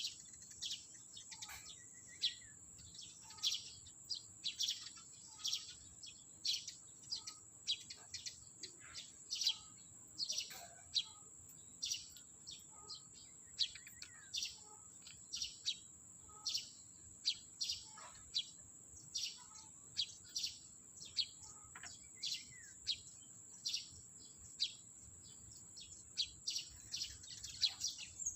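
Sparrows chirping repeatedly, short sharp high chirps about two or three a second, over a thin steady high-pitched hum.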